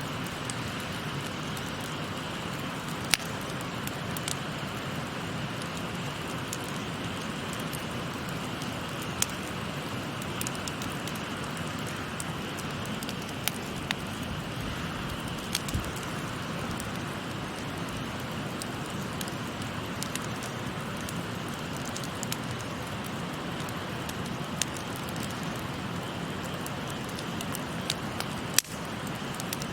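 Wood fire crackling, with scattered sharp pops, over the steady rush of a shallow stream.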